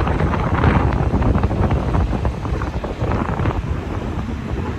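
Wind buffeting the microphone in a moving car: a loud, rough rushing noise that eases a little near the end.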